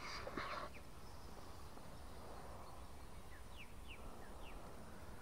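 Quiet outdoor ambience with a brief soft noise at the start, then four or five short, quick downward-sliding chirps from a small bird a little past halfway through.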